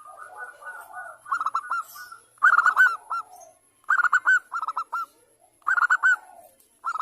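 Zebra dove (Bangkok perkutut) singing: a soft rolling trill at the start, then phrases of quick, clipped cooing notes repeating about every one and a half seconds.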